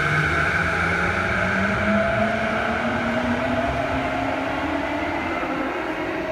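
Electric commuter train pulling out of an underground station and accelerating away, its traction motors whining in a steady rising pitch over the rumble of wheels on rail.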